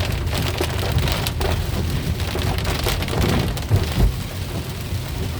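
Heavy rain hitting a moving car's body and windshield, a dense patter of small impacts over a steady low rumble.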